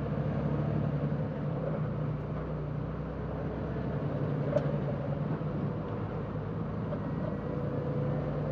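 Semi truck's diesel engine running steadily with road noise, heard from inside the cab while driving. A single light click sounds about four and a half seconds in.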